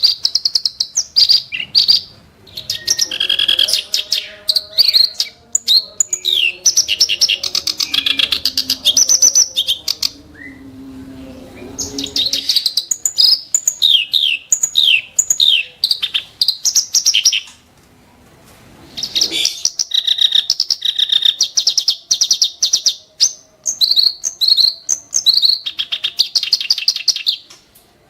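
Reed warbler (kerak basi) singing long runs of rapid, harsh, scratchy notes mixed with sharp whistled calls, broken by short pauses twice.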